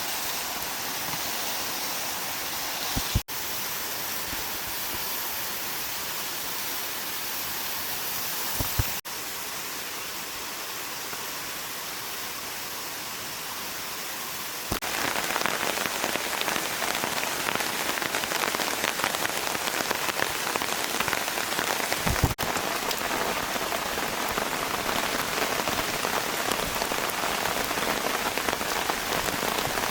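Rain falling steadily, as an even hiss of water. The sound changes abruptly several times, and about halfway through it becomes louder and denser.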